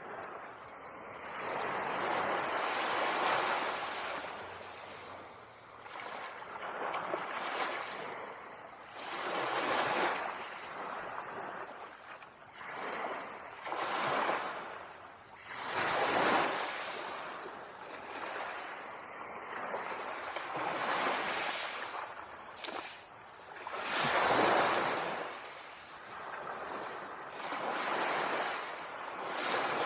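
Ocean waves breaking on a beach, one after another every few seconds, each surge swelling up and washing back out.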